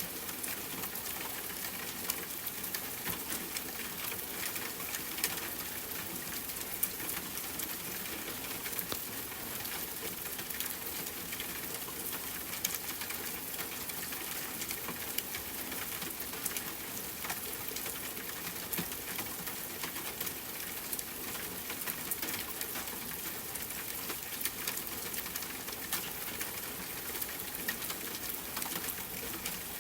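Steady rain falling, with a campfire crackling: a constant hiss of rain dotted with many short, sharp pops and ticks.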